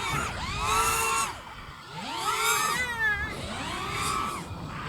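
A baby crying in three drawn-out wails, each rising and falling in pitch, with a wavering, quavering stretch in the middle one: a hungry baby.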